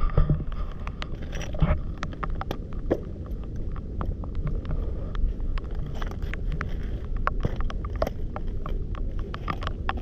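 Many irregular sharp clicks and taps over a steady low rumble.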